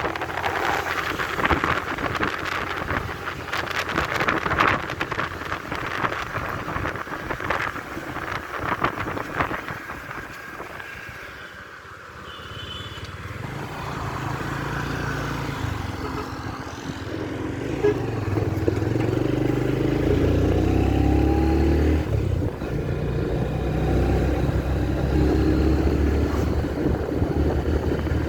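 Motorcycle on the road: wind buffets the microphone for the first ten seconds or so, then after a brief lull the engine's running note comes up strongly and grows louder through the second half.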